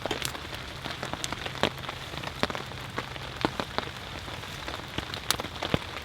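Steady rain falling, with scattered sharp taps of individual drops striking close by.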